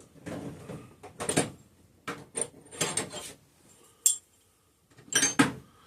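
Metal engine parts and hand tools clinking and clattering as they are handled and set down on a workbench, in short irregular knocks with a sharp click about four seconds in.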